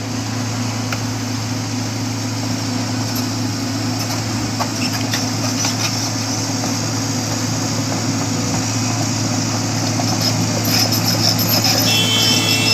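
A vehicle engine running steadily with a low hum, growing gradually louder. Near the end a high steady tone comes in.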